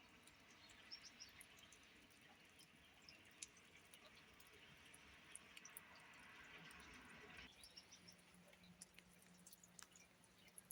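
Near silence: faint outdoor ambience with scattered small ticks and a few faint, short high chirps. The background hiss drops suddenly about seven and a half seconds in, leaving a faint low hum.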